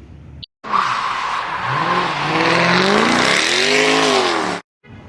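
A loud spliced-in sound effect about four seconds long, starting and stopping abruptly: a harsh hiss with a pitched tone that rises and falls, engine-like.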